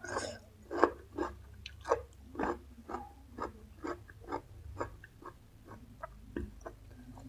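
Close-miked chewing of crunchy food, steady chews about two a second, growing fainter over the last couple of seconds.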